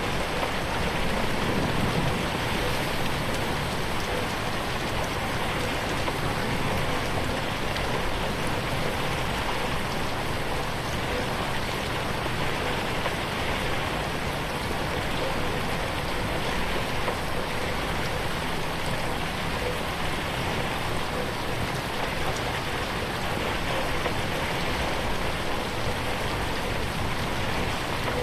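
Steady rain falling on a window, an even spatter of drops.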